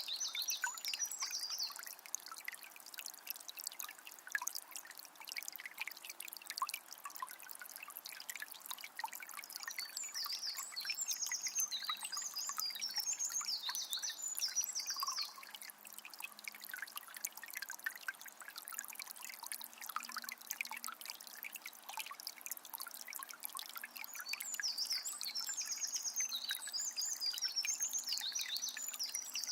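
Water of a small spring trickling and splashing steadily. A small bird sings three stretches of high chirping song over it: briefly at the start, in the middle, and near the end.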